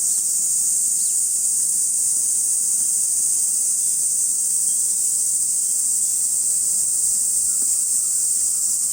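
Dense, steady high-pitched chorus of insects shrilling, unbroken throughout.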